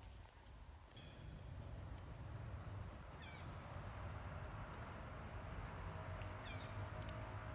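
A baby monkey gives short, high squeaky calls twice, over a steady low rumble.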